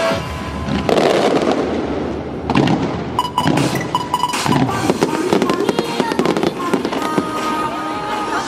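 Fireworks bursting and crackling in a rapid string of sharp cracks, starting about a second in, over music played through the show's loudspeakers.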